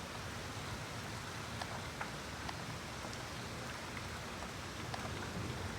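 Heavy rain falling steadily, a continuous hiss of rain on the ground with scattered individual drops ticking.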